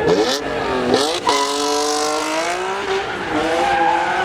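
A car being drifted: its engine revs dip and climb quickly in the first second, then hold high at full throttle, with tyres squealing as they slide.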